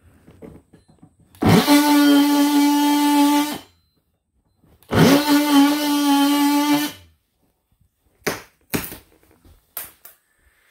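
Power drill run twice, each time spinning up quickly to a steady whine for about two seconds, drilling into the wood framing to pass electrical wires. A few short sharp knocks follow near the end.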